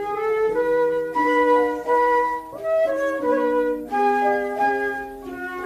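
Instrumental interlude of a children's song: a flute-like woodwind melody over light accompaniment, with no singing.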